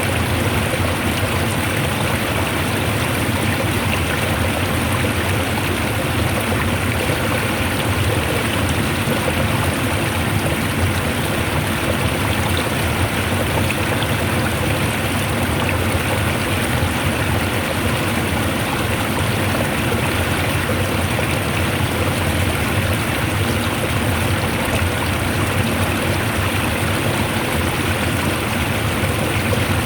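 Fast-flowing water rushing in a steady, even stream, with no breaks or separate splashes.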